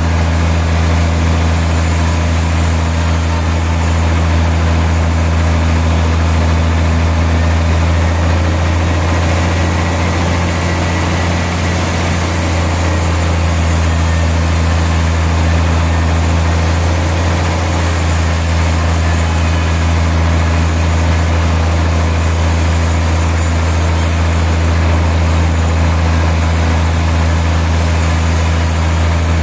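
Sawmill machinery running steadily: a loud, constant engine or motor hum that does not change.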